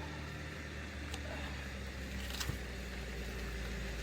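A steady low engine hum with a couple of faint knocks.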